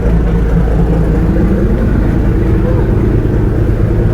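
Steady low engine rumble of a moving vehicle, with voices mixed in.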